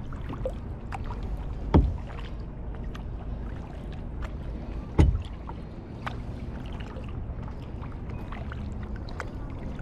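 Kayak paddling: the paddle dipping and water dripping, with frequent small splashes over a steady low rumble. Two sharp knocks stand out, about two and five seconds in, typical of the paddle striking the kayak's hull.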